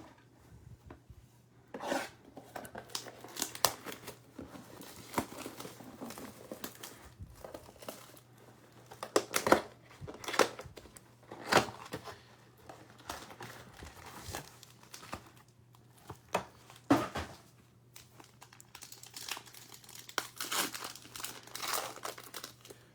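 Foil trading-card pack wrappers being torn open and crinkled: irregular rustling and crackling, with a denser stretch of crinkling near the end.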